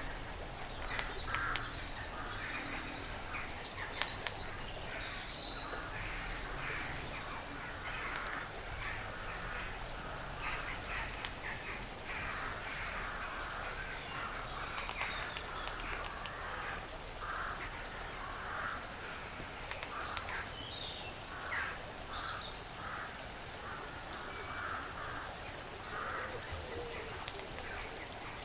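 Woodland field recording of squirrels feeding, with short scratchy noises repeating every second or so and birds calling now and then.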